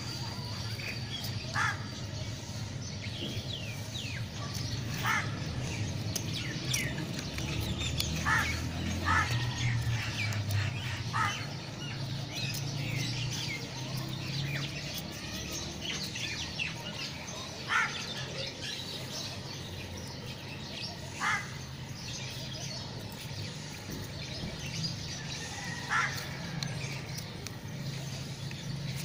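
Birds calling: short single calls every few seconds, over a steady low hum.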